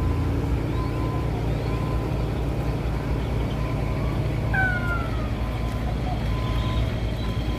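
Steady low rumble of road traffic, with a short falling tone about four and a half seconds in.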